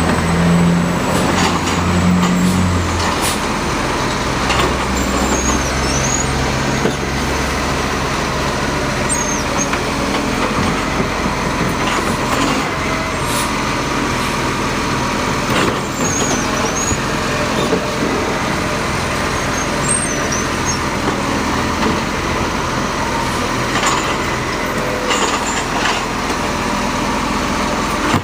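Garbage truck running, its engine rumble loudest for the first three seconds, then a steady mechanical din with scattered sharp clanks.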